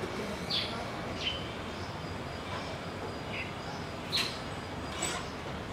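Small birds chirping, short high chirps about once a second, some falling in pitch, over a steady outdoor background hum.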